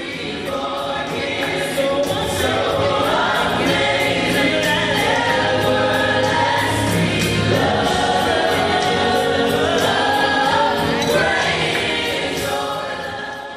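Youth gospel choir singing with many voices together over a steady drum beat.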